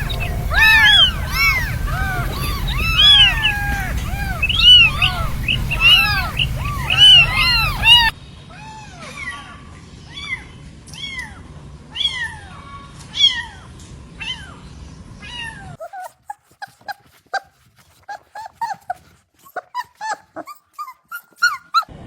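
Cats meowing: many short calls in quick succession, often overlapping. The sound changes abruptly about eight seconds in, when the calls become fainter, and again about halfway through, giving way to quick, short, sharp chirps.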